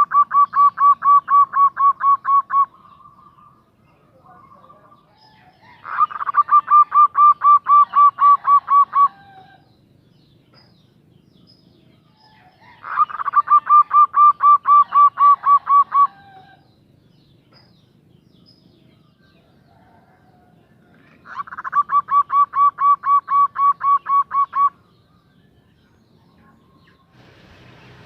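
Female zebra dove (perkutut) calling to a male. It gives four bouts of quick, even cooing notes, each about three seconds long and about five notes a second, separated by pauses of several seconds.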